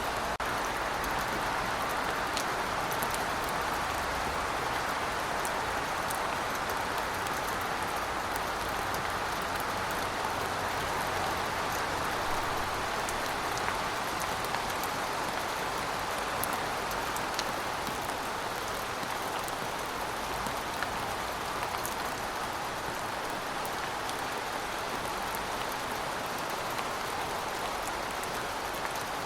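Steady, even rainfall, with faint scattered drop ticks in it.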